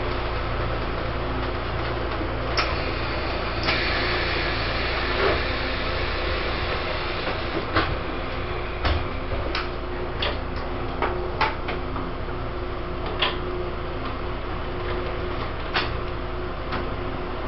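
Interior running noise of a Taiwan Railways E1000 push-pull Tze-Chiang express carriage: a steady low rumble and hum, with a dozen scattered sharp clicks and knocks.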